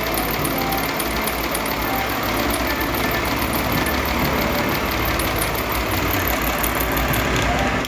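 Solaster Acapulco electric fan running with a steady mechanical rattle and fast, even ticking: the sound of its faulty motor bearings.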